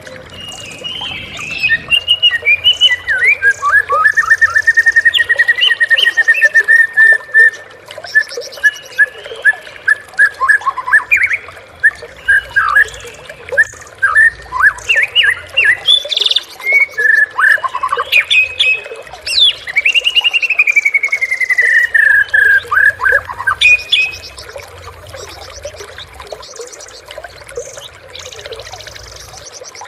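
Wild white-rumped shama (murai batu) singing a long, varied song of rapid whistled notes, trills and glides, with a long falling whistle near the middle. The song stops about six seconds before the end.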